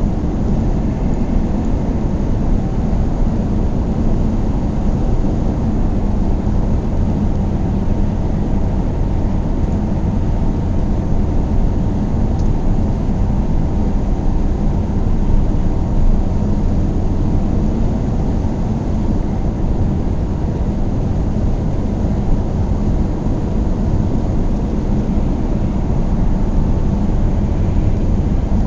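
A car driving at a steady speed: an even, low rumble of engine and road noise that does not change.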